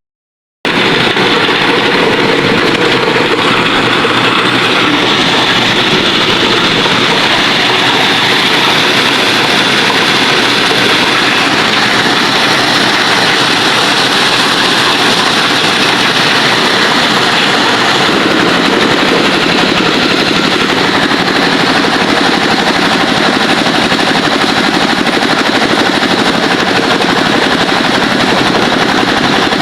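Engine-driven machine running steadily with a fast, continuous rattle.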